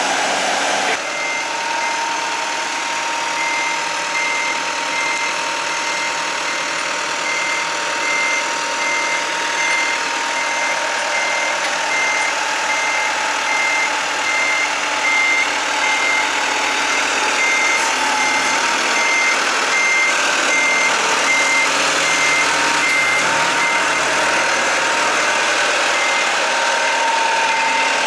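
Marina boat hoist's engine running steadily while its warning beeper sounds about once a second as it moves the yacht back to the water.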